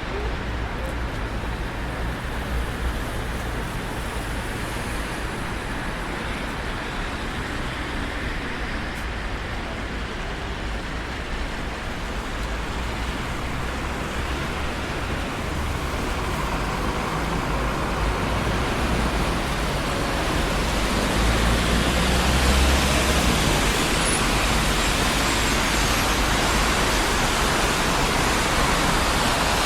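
Steady road traffic on a busy street: a continuous rush of tyres and engines with a low rumble, swelling louder in the second half as vehicles pass close by.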